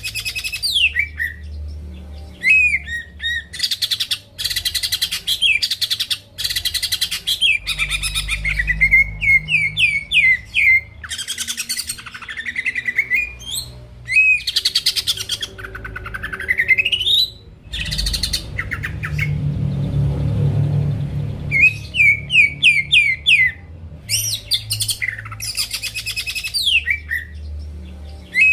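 Cucak ijo (green leafbird) singing loud, fast song phrases: quick runs of down-slurred whistles alternating with dense, harsh chattering, broken by short pauses.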